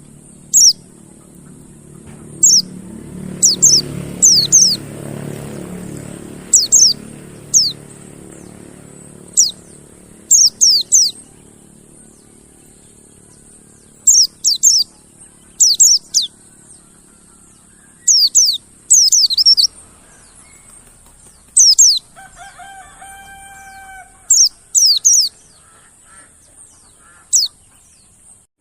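Mountain white-eye (pleci monty) calling: sharp, high-pitched notes sliding downward, singly or in quick pairs and threes, every second or two, over a steady high hiss. A short, lower-pitched call of another bird comes in about three-quarters of the way through.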